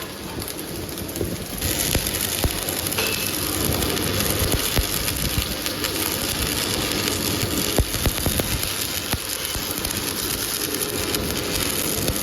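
Workshop machinery running steadily, louder from about a second and a half in, with scattered sharp knocks of metal work.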